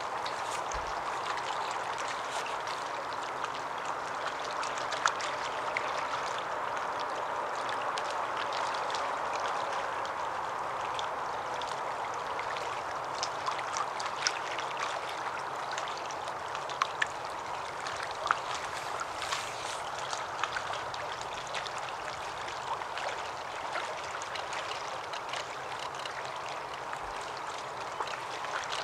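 Steady rush of running water, with scattered faint ticks and clicks throughout.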